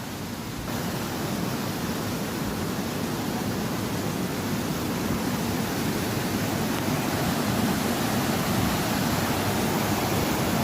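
Steady rush of the Shumka river's waterfall, a dense even roar of falling water. It gets a little louder about a second in and again towards the end.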